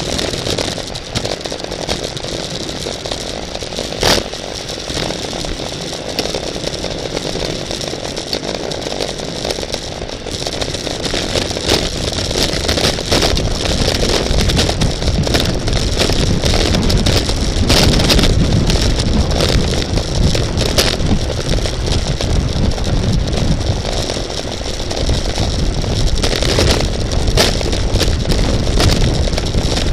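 Wind rushing over the microphone of a camera riding along in a bicycle race, growing heavier and deeper about halfway through, with scattered sharp clicks and rattles.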